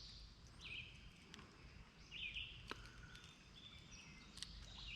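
Near silence: faint outdoor ambience with a few soft, high bird chirps and a couple of small clicks.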